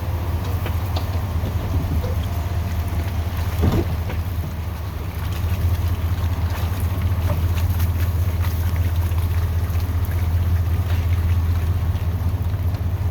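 Chevrolet truck's 8.1-litre Vortec big-block gasoline V8 running as a steady low drone, with scattered small clicks and a knock about four seconds in.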